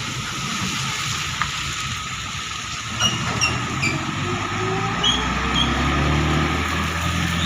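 Road traffic on a wet road in the rain: a steady hiss of tyres and rain, with a heavier vehicle's engine growing louder in the second half. A few short, high squeaks come in the middle.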